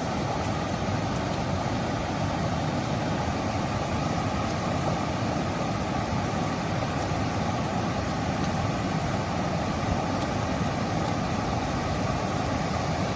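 Steady rushing noise of a strong, fast-flowing river current.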